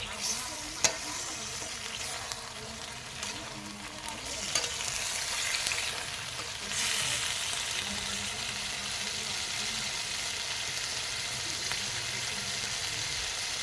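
Food sizzling in a pan while being stirred, with a couple of sharp knocks of the stirring utensil against the pan. The sizzle gets louder about seven seconds in and holds steady.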